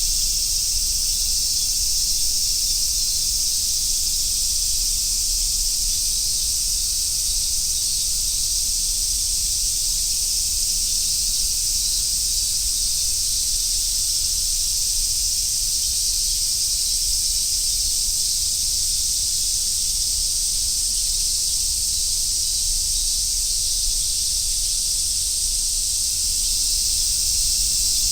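Dense chorus of Japanese summer cicadas, a steady high sizzling hiss that never breaks.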